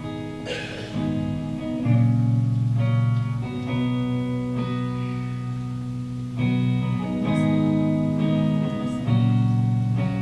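Worship band playing an instrumental intro: guitar chords strummed and left ringing, with the chord changing every few seconds.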